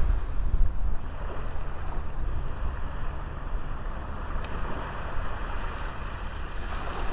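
Sea waves washing onto a small beach, a steady noisy wash that swells near the start and again near the end, with wind rumbling on the microphone.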